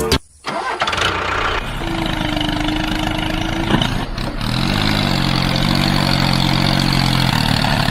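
An engine running steadily at idle, with a low hum coming in about halfway through.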